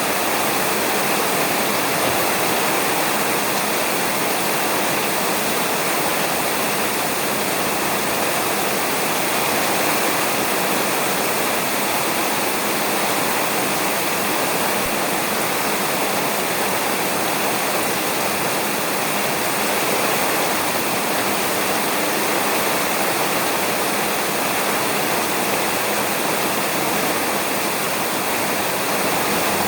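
Heavy rain falling on a roof, a dense, even hiss with no drops or thunder standing out.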